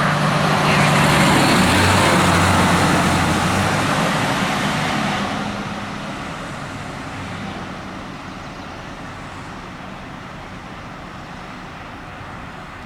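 Fire truck's engine and tyres as it drives past close by, loudest in the first few seconds, then fading away into road traffic.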